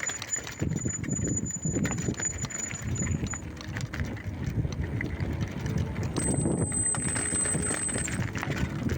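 Bicycle clattering and rattling over a rough off-road track, a dense irregular knocking with a low rumble.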